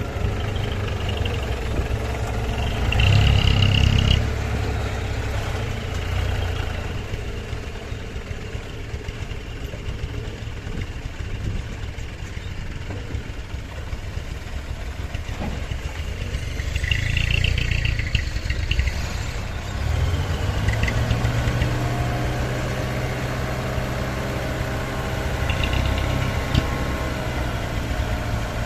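Hino 300 dump truck's diesel engine running, with revving surges about three seconds in and again around seventeen seconds, then held at higher revs from about twenty seconds in until near the end.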